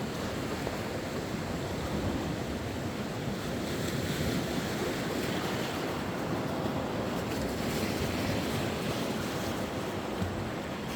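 Sea waves washing steadily onto the shore, with wind buffeting the microphone.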